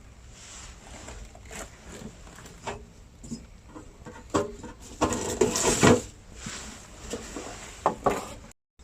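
Knocks and clatter of camp gear and firewood being handled, with a louder, longer scraping rustle about five seconds in.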